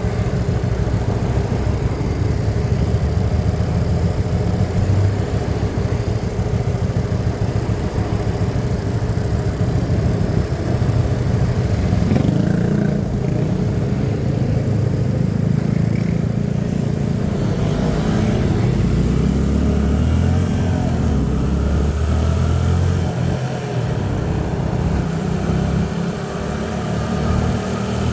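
Hyosung Aquila 125's small V-twin engine running under way, its note shifting in pitch and load a few times as the speed changes.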